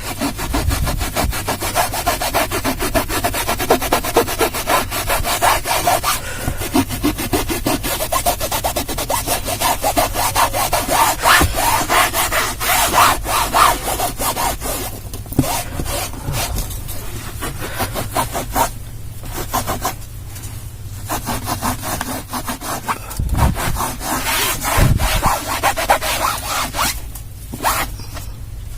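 Damp towel scrubbed back and forth over cloth car-seat upholstery in quick, rhythmic rubbing strokes, with a few short pauses, working a foaming baking-soda and shampoo cleaning solution into the stained fabric.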